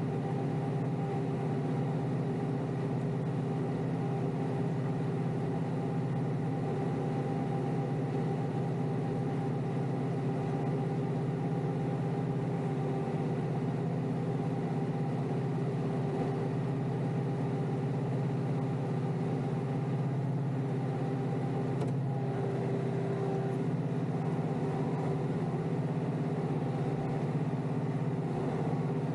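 Kioti DK5320SE tractor's diesel engine running at a steady, unchanging speed while the tractor works with a snow pusher.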